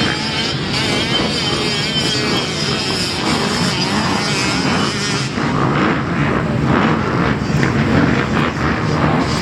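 85cc two-stroke motocross bikes racing, their engines rising and falling in pitch as the riders work the throttle.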